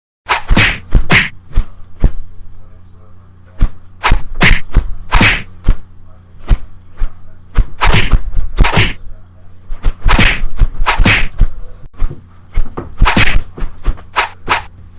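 Irregular knocks and thwacks in clusters of two or three, some of them loud, over a steady low electrical hum.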